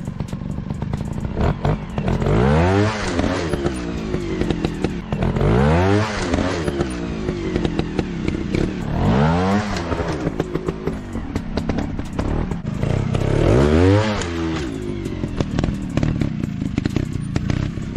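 Dirt bike engine revving up and back down four times, about every three and a half seconds, with a steady clatter of knocks and scrapes throughout.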